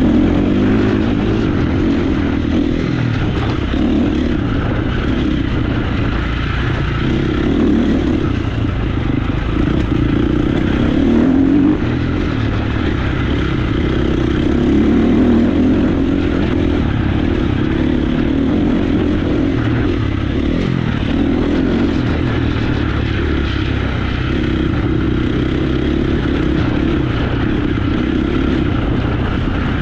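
Motocross bike engine running continuously while being ridden on a dirt track, its note rising and falling with the throttle.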